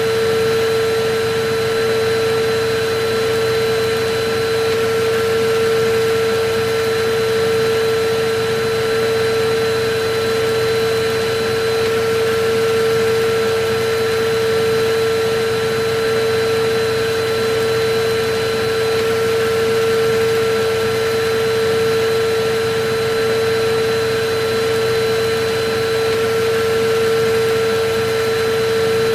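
Electric vacuum cleaner running steadily: an even rush of air with a constant mid-pitched motor whine.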